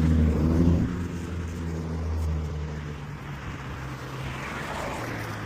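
A nearby car engine running, loudest in the first second, then quieter and fading away over the next couple of seconds. Near the end comes the rising noise of a car passing.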